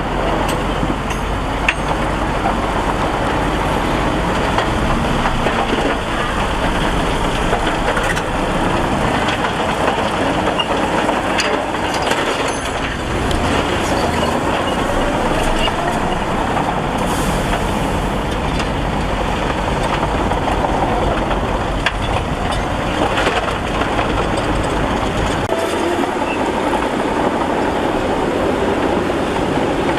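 Heavy diesel earthmoving machinery running steadily under load, with scattered metallic clanks. The deep low rumble drops away about 25 seconds in.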